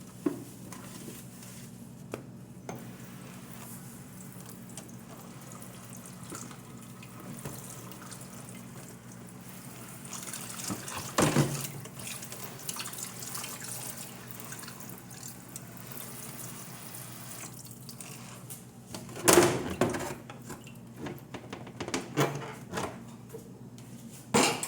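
Water running, over a steady low hum, with a couple of knocks about a third of the way in and again near the end.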